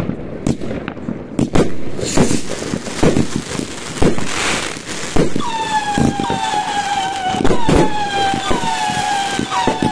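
New Year's fireworks and firecrackers going off in a rapid, irregular string of bangs and cracks. From about halfway through, a pitched tone joins them, repeating several times and dipping in pitch each time.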